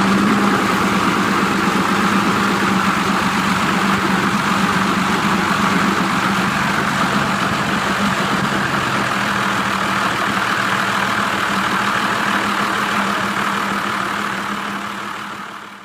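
Edwardian Italian car's 16-litre four-cylinder engine running steadily just after starting, fading away near the end.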